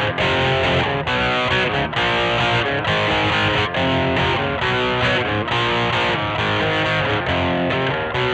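Squier Vintage Modified Jaguar electric guitar played with distortion, a continuous run of picked notes and chords changing every fraction of a second.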